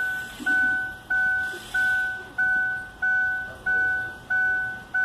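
Chevy Aveo's dashboard warning chime dinging over and over at an even pace, about one and a half dings a second, each ding starting sharply and fading away.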